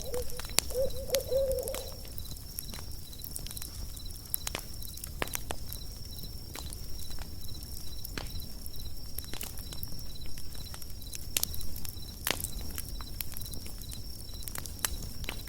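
Campfire crackling with irregular sharp pops, over the steady chirping of crickets in a regular pulse. An owl hoots once during the first two seconds.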